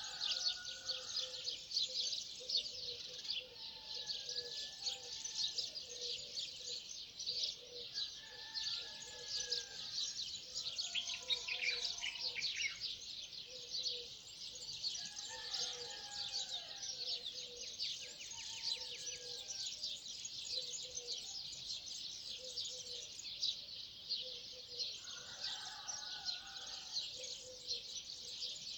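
Dawn chorus of many birds chirping rapidly and without a break, with occasional lower warbling calls and a low short note repeating steadily throughout.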